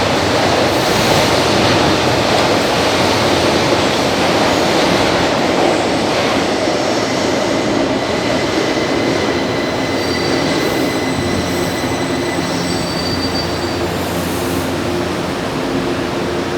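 São Paulo Metro train moving through the station, a loud rumble of wheels on rail that slowly eases off, with thin, high, steady whines coming in partway through.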